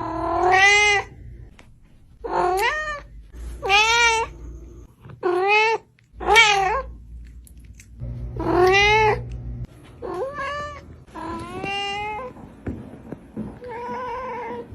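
A cat meowing over and over, about nine meows spaced a second or so apart, each rising and then falling in pitch; the last couple are fainter.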